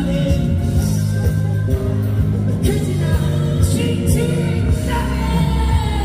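Live amplified fusion gugak music with a singer over a heavy bass line, holding a long, slightly falling note near the end.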